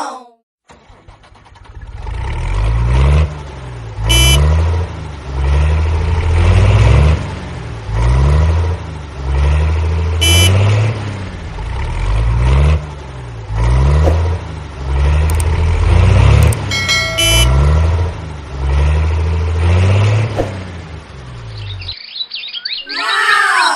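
Cartoon vehicle engine sound effect, a low rumble rising and falling in repeated swells about every second and a half, with a few short beeps along the way.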